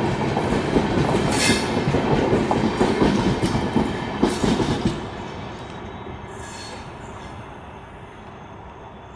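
Express passenger train's coaches rolling past at speed, wheels running over the rails with occasional sharp knocks. After about five seconds the last car, a luggage-brake and generator car, has gone by and the sound fades steadily as the train pulls away.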